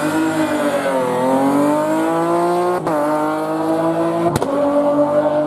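Rally car engine revving hard under acceleration. The pitch climbs, eases briefly about a second in, then drops sharply with an upshift about three seconds in and pulls on at high revs.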